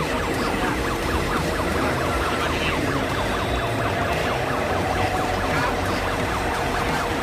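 A siren-like tone warbling rapidly up and down many times a second, over a steady hum.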